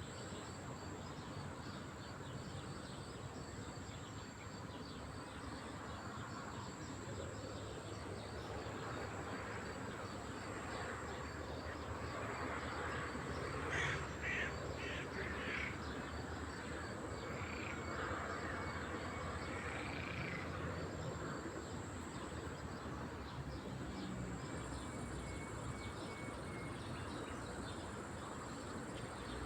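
Four short, harsh bird calls in quick succession about halfway through, with a few fainter calls after, over a steady hiss of lakeside ambience.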